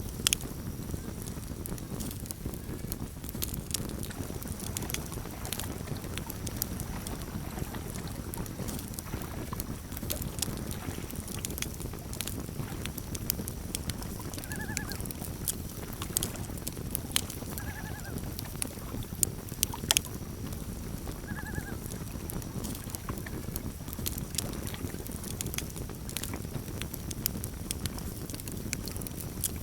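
Campfire crackling and popping steadily over a low rumble of burning, with three short quavering loon calls about halfway through, a few seconds apart.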